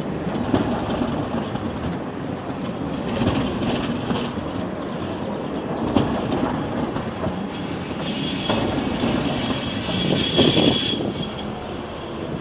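Linz Cityrunner low-floor tram rolling over the rails, its wheels knocking sharply now and then on the track joints, with a high wheel squeal for a few seconds in the second half.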